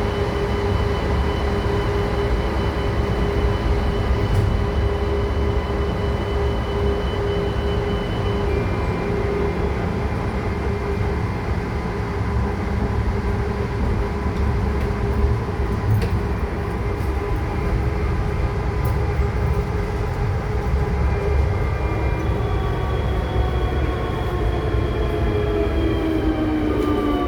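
VAL208 rubber-tyred metro car running, a steady low rumble with a constant motor whine; the car has a slight motor fault. About 23 seconds in, a stack of whine tones starts falling in pitch as the train slows on the approach to the station.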